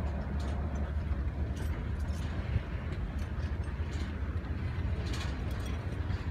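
Freight train's tank and hopper cars rolling past: a steady low rumble of wheels on rail, with scattered clicks and clanks, the sharpest about two and a half seconds in.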